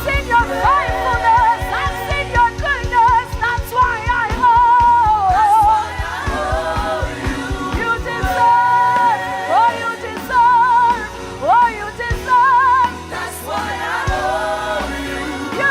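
Live gospel worship music: a lead singer's voice with a wavering vibrato, backed by other singers, over a band with a steady beat.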